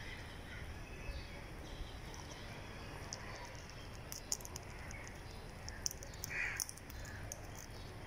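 A quiet, low steady rumble with a few faint clicks, and one short raspy bird call a little after six seconds in.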